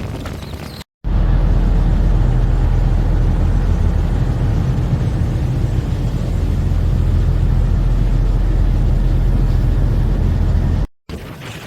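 Loud, steady low engine drone running evenly for about ten seconds, cut in and out abruptly.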